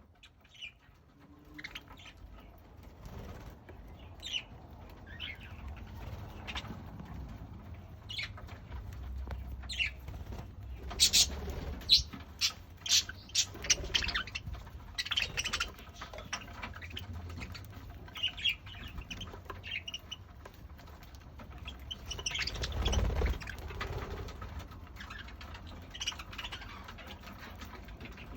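Pet budgerigars chirping and chattering in short, high calls as they feed on fresh guinea grass, sparse at first and busiest in the middle, over a low background rumble.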